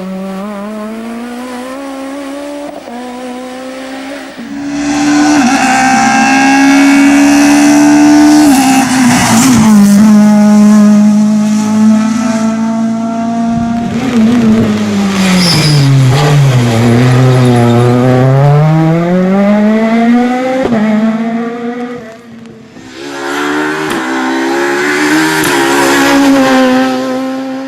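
Peugeot 206 S1600 rally car's 1.6-litre four-cylinder engine at high revs on a stage, loud and close. The revs step down about a third of the way in, drop low and climb back as the driver lifts and gets on the throttle again, and the sound dips sharply about 22 s in before another burst of hard revving.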